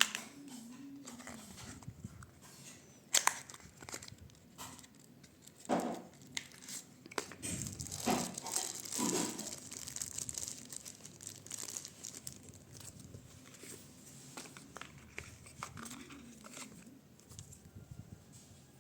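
Earbud packaging being opened and handled: plastic and paper crinkling and tearing, with scattered sharp clicks and taps. It is busiest about eight to eleven seconds in.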